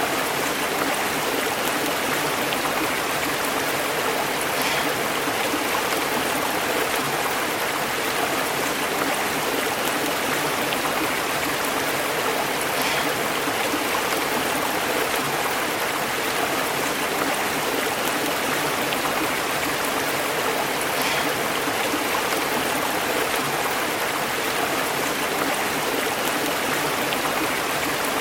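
Stream water flowing and bubbling over rocks, a steady, unbroken rush with small splashes.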